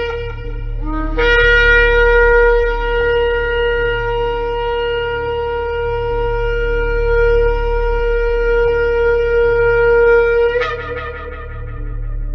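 A shofar is blown. A short low note slides up into one long steady blast that holds for about nine seconds. Near the end it breaks upward into a higher, wavering note and dies away.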